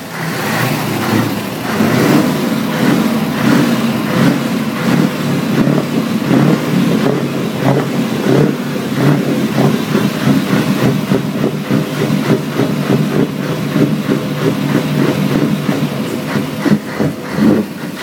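A car's V8 engine running loudly at fairly steady revs.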